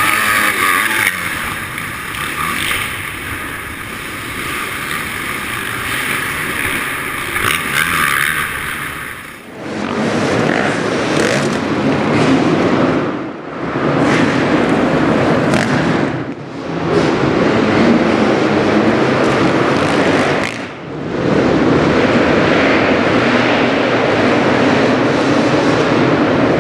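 Motocross bike engine running hard under throttle, dropping briefly three times in the second half as the throttle is eased. The sound changes abruptly about nine and a half seconds in.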